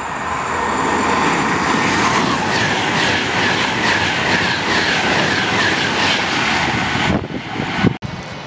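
Class 390 Pendolino electric train running along the platform, with a steady rumble and hiss and a regular clatter of wheels over rail joints, about three beats a second. The sound breaks off near the end.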